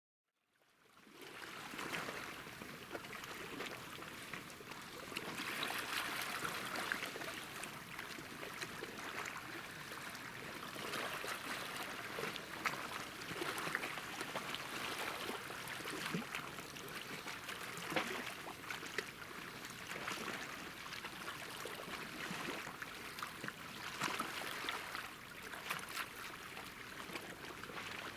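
Small sea waves lapping and washing at the shore, a steady wash of water with fine crackles through it, fading in over the first second or so.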